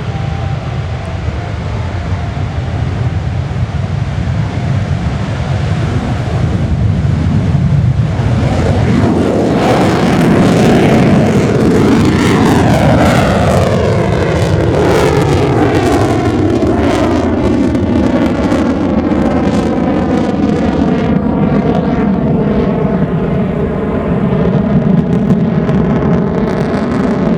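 JASDF F-2 fighter's single turbofan engine at maximum thrust on its takeoff run, a rumble that swells to a loud jet roar about eight seconds in as the jet passes, with a sweeping, falling whoosh as it goes by and climbs away.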